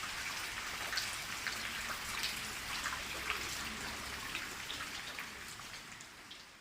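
Steady rain falling, with many separate drop hits standing out from the hiss; it fades out toward the end.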